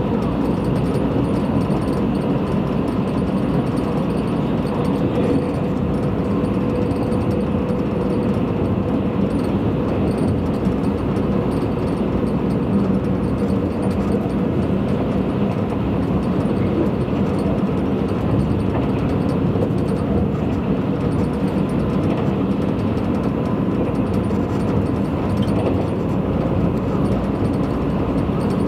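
Tobu Spacia limited express electric train running at speed, heard from inside the passenger cabin: a steady rumble of wheels on rails and running gear. A faint steady hum sounds over it during the first several seconds.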